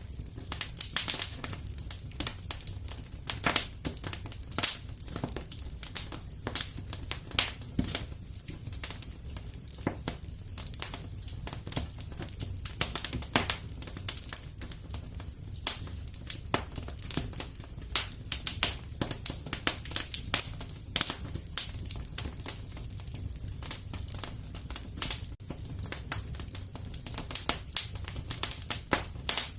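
Wood fire in a fireplace crackling, with frequent irregular sharp pops and snaps over a steady low rumble of the burning.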